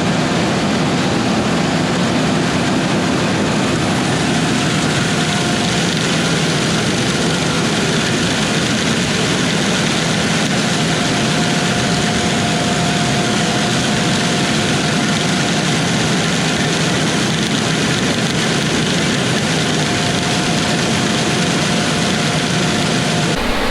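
Combine harvester running steadily while cutting wheat: a continuous machine drone with a faint whine that comes and goes.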